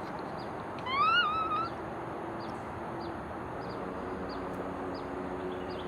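A single short animal call about a second in, rising and then wavering, over steady background noise with faint high chirps.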